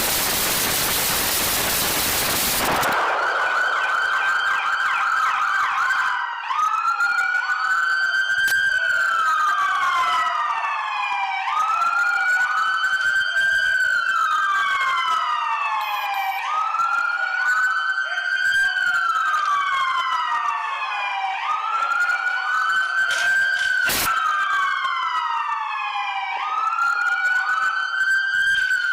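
Police car siren on wail, rising and falling about once every five seconds, with a second overlapping wail slightly out of step. It opens with a loud rushing hiss for about three seconds before the siren takes over.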